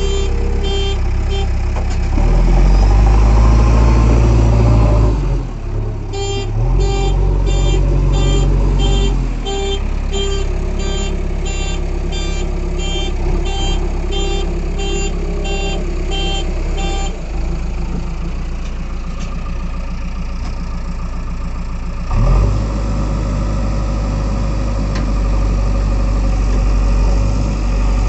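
JCB 3DX backhoe loader's diesel engine running and labouring harder in several surges as it works. From about six to seventeen seconds in, rapid electronic beeping sounds, about three beeps a second.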